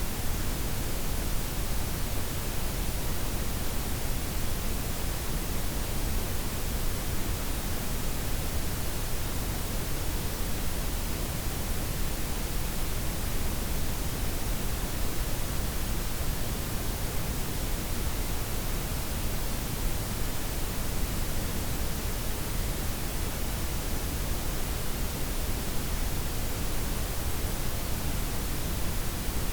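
Steady blend of white, pink and brown noise, a smooth, even hiss that does not change.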